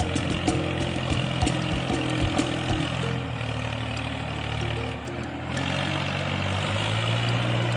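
Mini tractor engine running steadily under background music.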